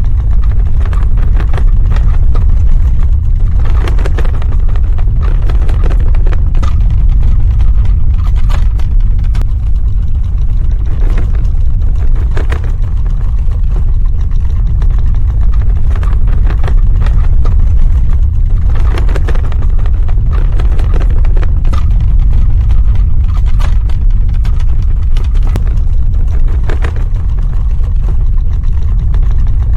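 Earthquake sound effect: a loud, continuous deep rumble with scattered crackles and clattering throughout, swelling into heavier rattling several times.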